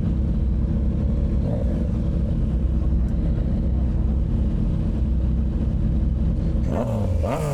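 Honda CBR sport bike's engine running steadily while riding, with wind noise on the microphone; near the end the revs rise briefly, then fall away.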